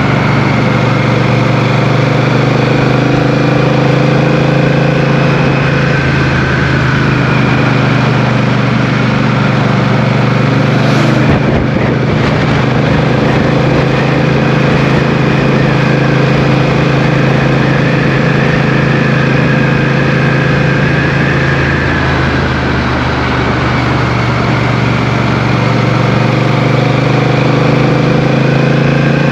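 Motorcycle engine running at a steady, slightly varying cruise, with rushing wind and road noise over it.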